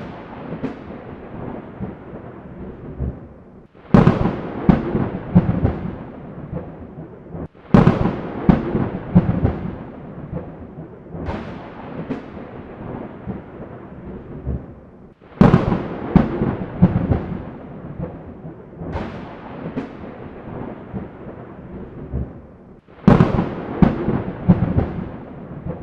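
Thunder: a string of thunderclaps every few seconds, each a sudden sharp crack that rolls off into a long rumble. Four of them hit hardest, with a couple of lighter peals in between.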